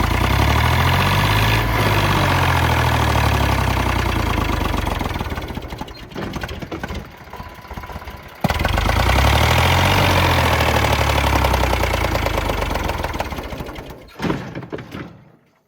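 Diesel tractor engine revving up and easing back down, twice. The level jumps abruptly about halfway through, and the engine fades out near the end.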